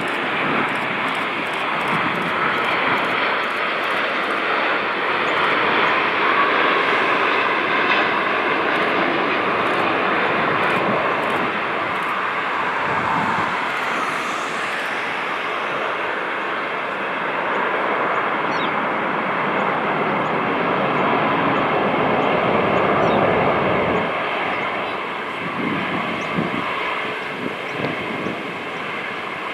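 Boeing 787-9 Dreamliner jet airliner landing: a steady, loud jet-engine roar that eases slightly near the end.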